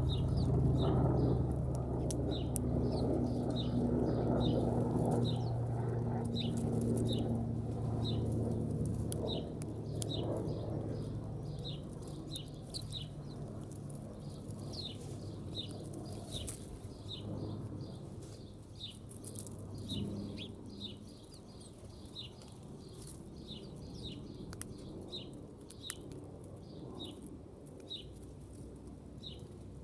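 A small bird chirping over and over, short high chips about one to two a second. Under the chips is a low rumble that fades away over the first half.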